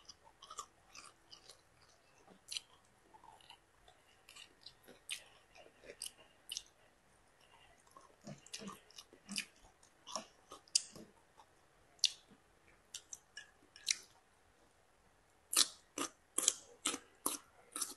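Crisp Chinese kale (gai lan) stems being bitten and chewed close to the microphone: irregular crunching snaps, with a quick run of louder crunches near the end.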